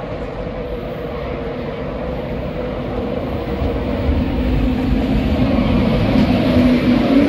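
LNER Class 91 electric locomotive at the head of an InterCity 225 train, approaching and running past along the platform. The rumble of the train grows steadily louder as it nears, with a low hum at its strongest as the locomotive draws level near the end.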